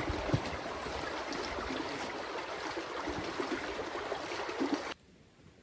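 Rushing, flowing water, like a forest stream, loud and steady; it breaks in suddenly and stops abruptly about five seconds in.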